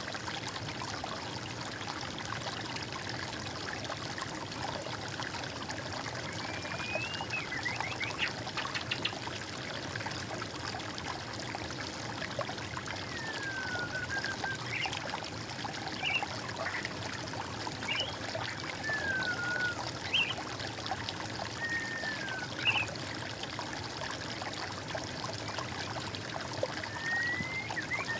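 Water trickling steadily, with a bird calling in short whistled notes that slide up or down in pitch, scattered from about six seconds in.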